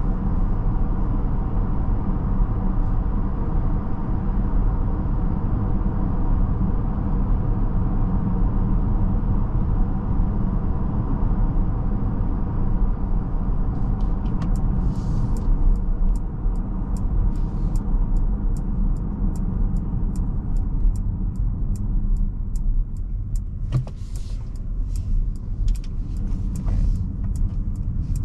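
Road and tyre noise heard inside a Mercedes-Benz GLB350's cabin on the move, a steady low rumble. About halfway through, a turn-signal indicator starts ticking at about two clicks a second.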